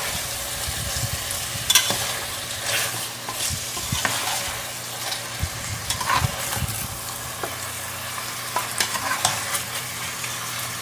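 Fried tofu and boiled chicken feet being stirred into a sizzling ground chili-and-tomato spice paste in a pot: a steady sizzle with occasional short knocks.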